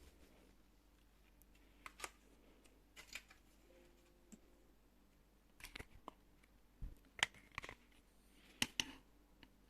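Scattered light clicks and rattles of plastic Lego parts as a Lego AR-15 model is handled, coming in short clusters a second or two apart.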